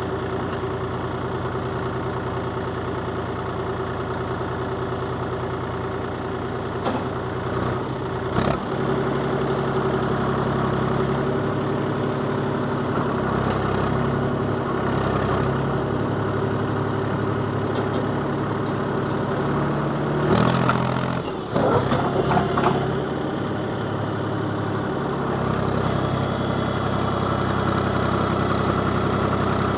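Mahindra tractor's diesel engine running steadily while hauling a trailer loaded with soil. The pitch steps up about eight seconds in, with a couple of sharp knocks around then, and there is a louder clattering burst about twenty-one seconds in.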